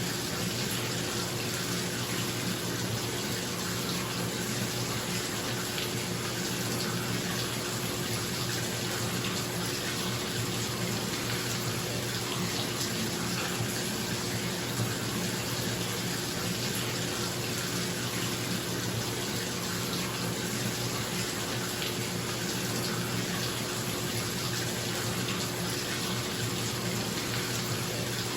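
Bathtub faucet running steadily into a filling tub, an even rushing of water, with the steady hum of a bathroom exhaust fan underneath.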